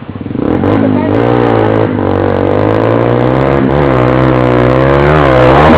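Motorcycle engine starting up and revving, its pitch falling and rising again several times as the throttle is worked, getting louder toward the end.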